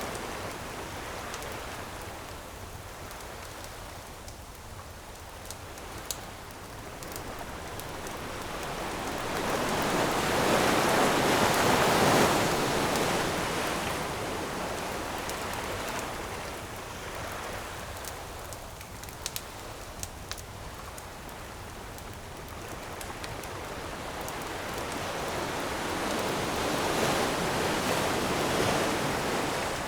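Ocean waves washing onto a shore, the surf swelling up and falling away twice, with a few sharp crackles of a wood campfire.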